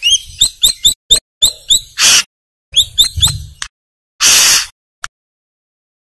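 Brown-throated sunbird calling: runs of quick, sharp rising chirps broken by loud, harsh rasping notes about half a second long.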